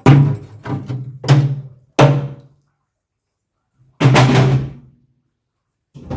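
A series of loud, drum-like thuds at uneven intervals, each with a short booming ring that dies away quickly.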